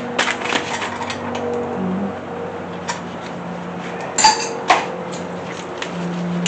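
Light metallic clinks and rattles of bolts, washers and tools being handled, with two sharper metal knocks about four and a half seconds in.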